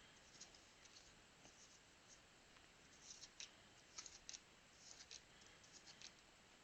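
Faint handling of trading cards: soft scattered clicks and scratches as cards are flipped and slid against each other, a few bunched together about three to four seconds in.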